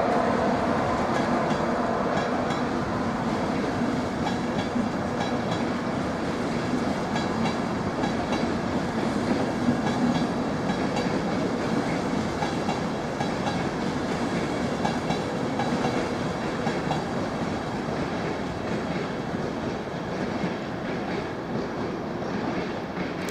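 A train running on the main line through the station: a steady rumble of wheels on rails that gradually gets quieter.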